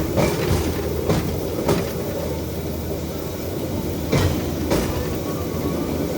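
Rail bike's steel wheels rolling along the track with a steady low rumble, and sharp clacks now and then, some in pairs about half a second apart, as the wheels pass over rail joints.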